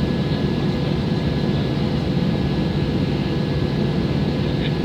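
Steady jet engine and airflow drone of a Boeing 737-800's CFM56 turbofans heard inside the cabin near the wing, with a few faint steady whines over a deep, even rush.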